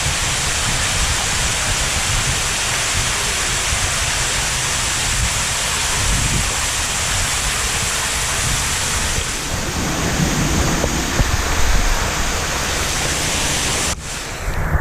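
Steady rushing noise of splashing water, with wind gusting on the microphone; it drops off suddenly near the end.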